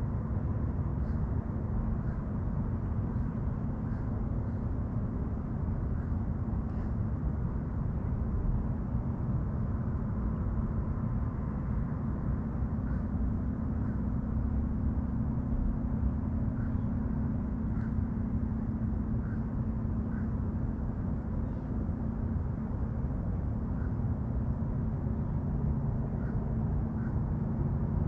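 Boat engine running at a steady pitch, a continuous low hum over a rumble. A few faint, short bird chirps come through now and then.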